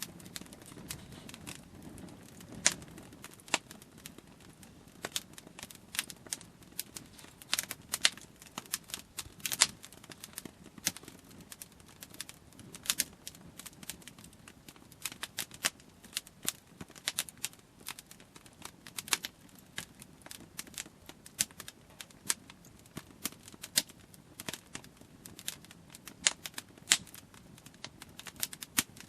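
Wood campfire crackling: irregular sharp pops and snaps, several a second, some much louder than others.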